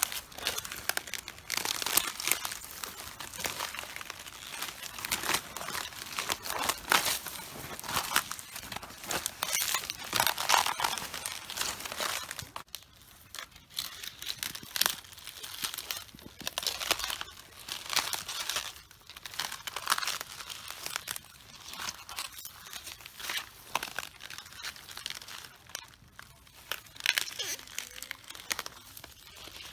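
Cabbage leaves crushed underfoot, crunching and crackling in irregular bursts every second or two, with a short lull about thirteen seconds in.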